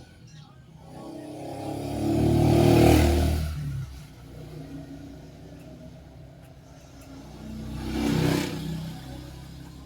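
Suzuki Multicab's F6A three-cylinder engine running, revved up twice: a bigger rev about three seconds in and a shorter one near the end, settling back to idle in between.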